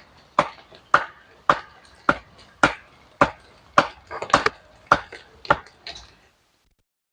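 Wooden fence stakes being driven in with steady blows, about two strikes a second, which stop about six seconds in.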